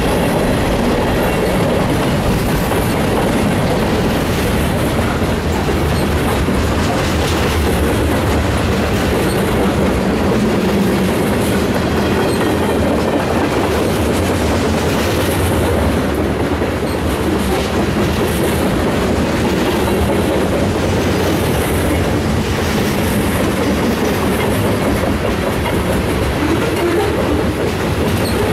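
Union Pacific freight train's covered hopper cars rolling steadily past close by, a continuous rumble with the clatter of steel wheels on the rails.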